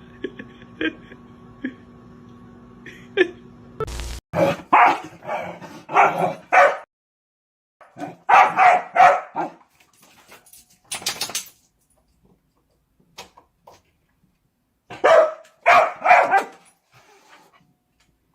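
A dog barking in short runs of several barks with pauses between, after a few seconds of a steady low hum.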